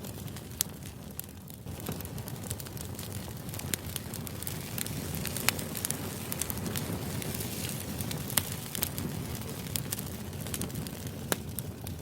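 Crackling fire ambience: a steady low rumble with irregular sharp crackles and pops scattered throughout.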